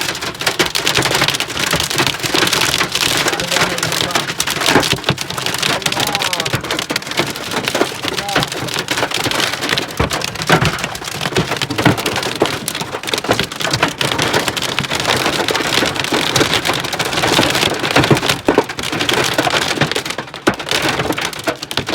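Heavy rain mixed with hail, a dense steady clatter of many small impacts on hard surfaces.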